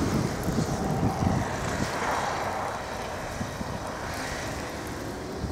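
A vehicle passing on a snow-covered road: a steady hiss of tyres and engine that swells about two seconds in and then fades away. Wind buffets the microphone throughout.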